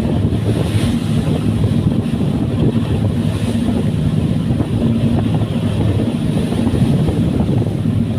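Fast passenger ferry's engines running underway, a loud steady low drone over a rushing hiss.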